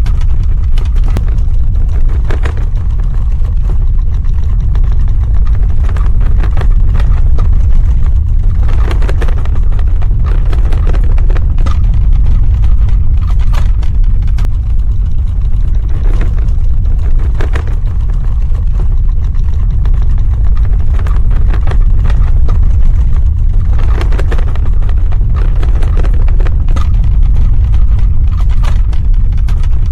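Earthquake rumble sound effect: a loud, continuous deep rumble with irregular crackling and rattling every few seconds.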